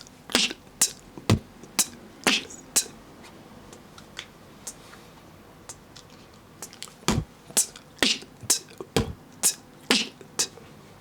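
Beatboxer's inward K snares, sharp crisp snare-like strikes made by drawing breath in hard against the tongue, mixed with a few deeper hits. Six come about half a second apart, then after a pause a faster run of about a dozen.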